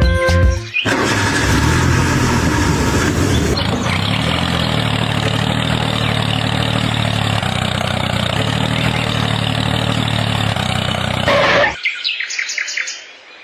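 An engine running steadily, cutting off suddenly near the end, followed by a few bird chirps.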